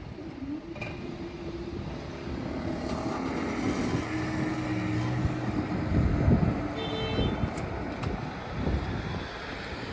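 Road vehicles running past, engine noise with a low hum that builds and gets louder through the middle, and a short high-pitched tone about two-thirds of the way through.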